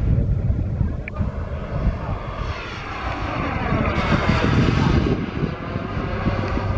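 Turbine-powered radio-controlled scale model of an Aermacchi MB-339 jet flying past: its jet hiss swells over a couple of seconds, peaks about halfway through with a sweeping change in tone as it passes, then eases off. Low wind rumble on the microphone underneath.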